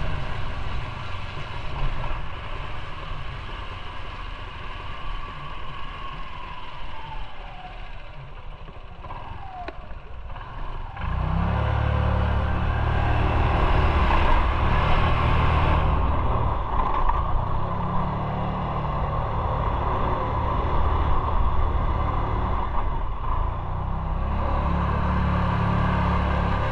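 Motorcycle riding, heard from an onboard microphone: engine and road noise run steadily. About eleven seconds in, a heavy wind rumble on the microphone comes in and the overall sound gets louder.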